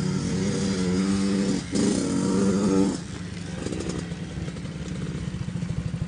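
Dirt bike engine running at high revs, dipping briefly, then dropping back to idle about three seconds in.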